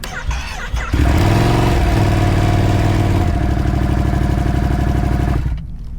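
Motorcycle engine running loud and close at low, steady revs, starting abruptly about a second in and dropping away shortly before the end.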